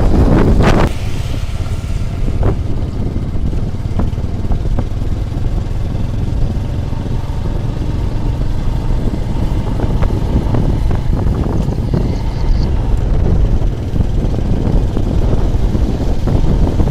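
Steady, loud low rumble with wind buffeting on the microphone, a few faint ticks standing out over it.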